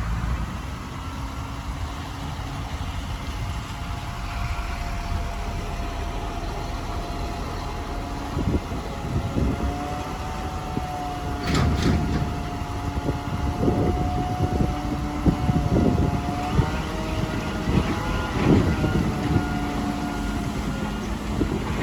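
Heavy earthmoving machinery at work: diesel engines running with a steady whine, joined from about eight seconds in by irregular clanks and knocks, with one sharp knock near the middle.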